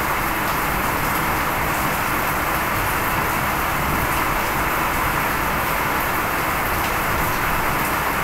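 Heavy rain pouring onto a river's surface, a steady, even hiss with no let-up.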